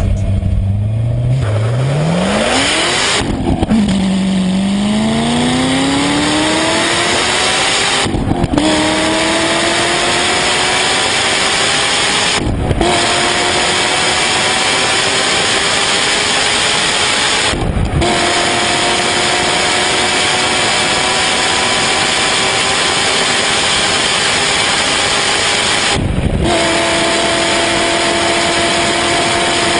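Car engine accelerating hard up through the gears: it holds low, pulls away about a second in, and its pitch climbs through each gear and drops at each of five quick upshifts. The climb slows in the higher gears.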